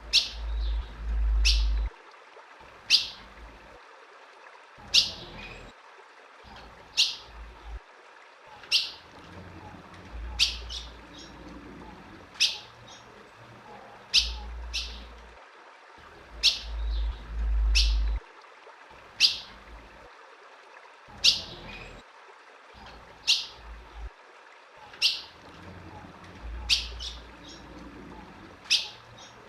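Female ultramarine grosbeak (azulão) giving single short, sharp call notes, each falling quickly in pitch, repeated about every one and a half to two seconds. This is the female's call that keepers play to excite a male. A low rumble comes in now and then underneath.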